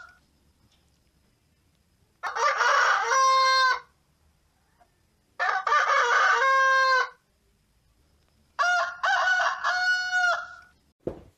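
A rooster crowing three times, each crow about a second and a half long, with quiet gaps between.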